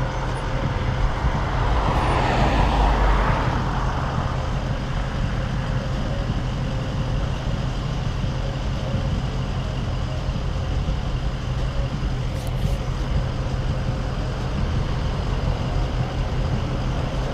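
Steady wind and rolling rumble on the microphone of a moving bicycle, with a louder rushing hiss that swells about two seconds in and fades a second or so later.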